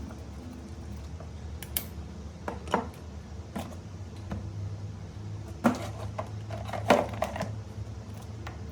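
Irregular clicks and clinks of small hard objects being handled on a bench, with two louder knocks a little more than halfway through, over a steady low hum.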